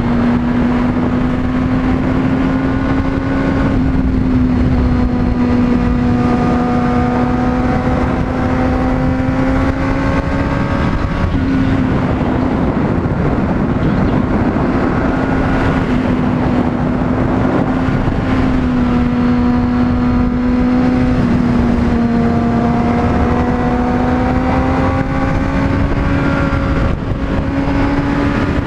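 Honda CBR600RR inline-four sport-bike engine running at steady cruising revs under way. Its note slowly climbs and drops back a few times, over a constant rush of wind and road noise.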